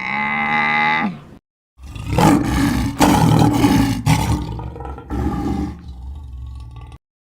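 A short pitched animal call about a second long. After a brief silent cut, a lion roars and growls in several rough surges for about five seconds.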